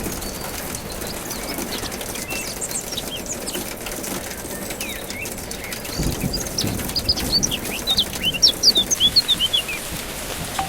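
Steady rain with birds chirping over it; near the end a bird gives a quick, loud run of high chirps that step down in pitch.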